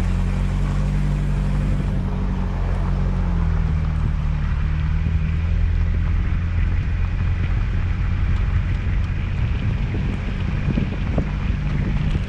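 Truck engine running steadily, a low drone with a slight change in pitch about three seconds in.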